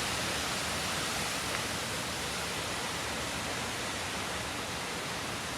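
Steady rushing noise of a thunderstorm's wind and rain.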